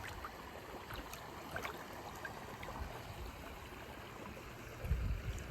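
Creek water trickling and swishing around a person's legs as they wade slowly in waders, with a few faint splashes and a dull low thump near the end.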